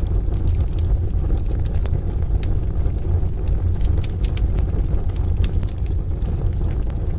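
Wood fire crackling, with irregular sharp pops and snaps over a steady, deep rumble.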